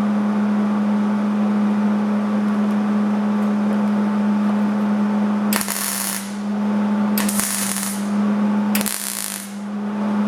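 A steady electrical hum, then about halfway through three short crackling bursts of a welding arc, each under a second: tack welds being laid on sheet-metal door panels.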